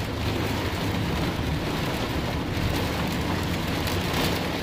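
Heavy rain pelting the roof and windshield of a moving car, heard from inside the cabin over a steady low rumble from the car.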